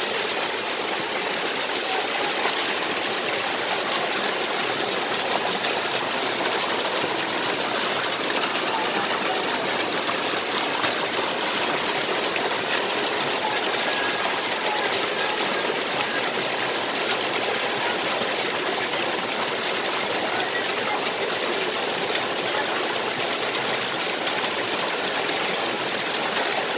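Small waterfall and stream water rushing steadily, an even rushing noise with no breaks.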